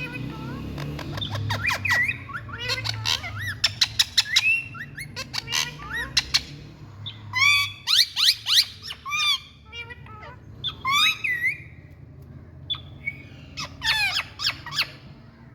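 Indian ringneck parakeets (rose-ringed parakeets) squawking and calling in quick runs of short screeches and arching whistled calls, over a low steady hum.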